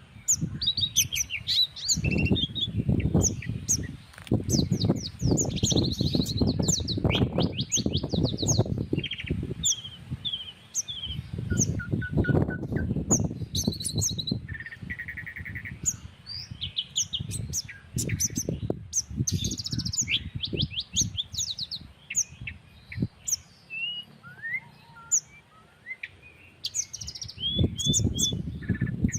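Several small birds chirping and calling over one another, with rapid trills and short high whistles throughout. Long stretches of low wind rumble on the microphone come and go beneath them.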